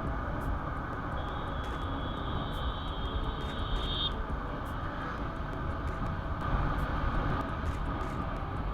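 Road and traffic noise heard while riding a motorcycle, with a dense low rumble throughout. A steady high-pitched tone sounds from about one second in and stops about four seconds in.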